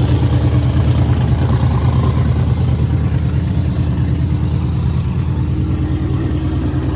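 Pickup truck engine and exhaust running with a steady low rumble and a fast, even pulse, easing slightly a few seconds in.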